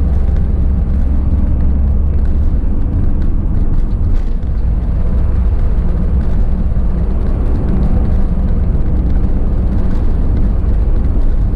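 Mercedes-Benz Sprinter 314 CDI four-cylinder diesel truck under way, its engine and road noise making a steady low rumble.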